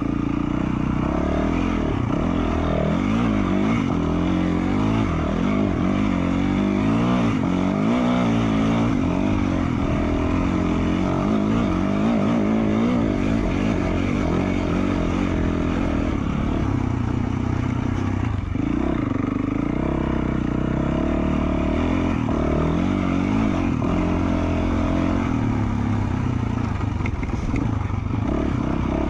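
2020 Yamaha YZ450F dirt bike's 450 cc single-cylinder four-stroke engine, fitted with an FMF Q4 slip-on muffler, running under way while being ridden, its pitch rising and falling over and over as the throttle is worked.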